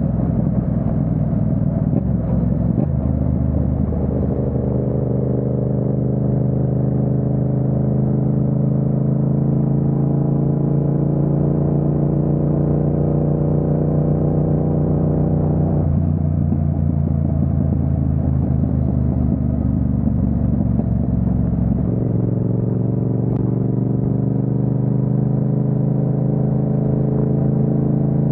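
Yamaha MT-07's 689 cc parallel-twin engine running under way, its pitch climbing slowly as the bike gathers speed. The note changes at about the middle, then climbs slowly again toward the end.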